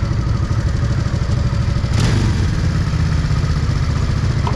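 Honda Shadow VT750's V-twin engine running under way, a steady low rumble. About two seconds in there is a brief sharp sound, after which the engine note drops and settles lower.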